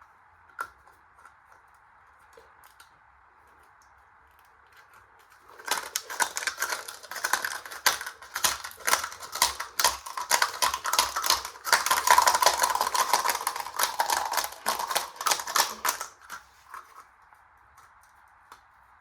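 Coins rattling and clattering inside a spinning washing-machine drum, a dense rapid clatter that starts about five seconds in and stops suddenly about ten seconds later.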